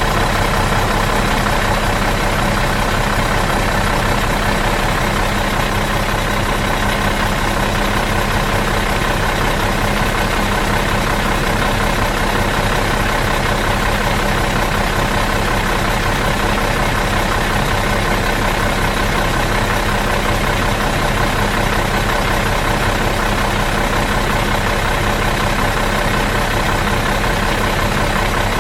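Bus diesel engine idling in neutral, running steadily with an even, unchanging hum.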